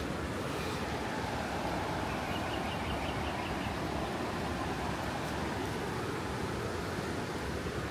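Steady outdoor rushing noise with no distinct source, and a short run of about eight rapid high-pitched animal calls a couple of seconds in.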